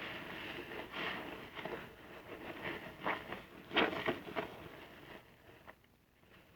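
Soapy car sponge being squeezed and worked, wet lather squishing and crackling in irregular bursts, loudest just before the middle and dying down near the end.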